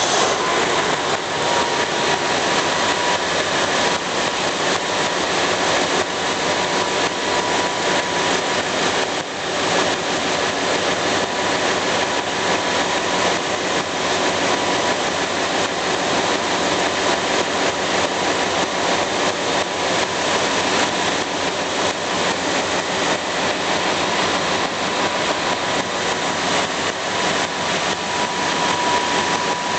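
An engine running steadily on test, a loud even noise with a thin steady whine over it and a brief dip about nine seconds in.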